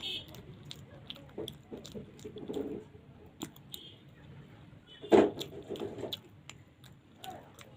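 Mouth sounds of a person eating luchi, puffed deep-fried flatbread, with alur dam potato curry: wet chewing with scattered small clicks, and one louder sharp sound about five seconds in.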